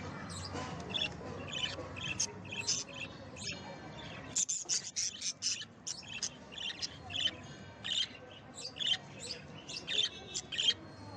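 Pet lovebirds chirping: a quick series of short, high-pitched chirps, growing busier about four seconds in.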